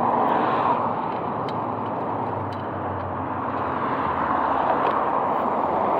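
Steady rushing road and traffic noise heard while cycling, with a low engine hum from a passing vehicle about two to four seconds in.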